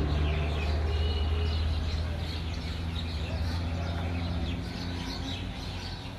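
Small birds chirping over a low, steady motor hum that fades over the last few seconds.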